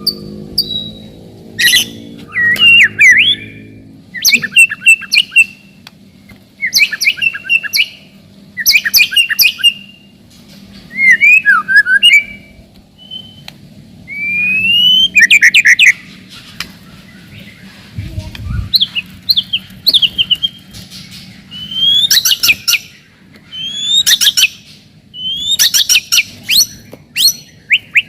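White-rumped shama (murai batu) singing: loud phrases of about a second each, packed with rapid trills, whistled glides and chattering notes, following one another with short pauses, about a dozen in all.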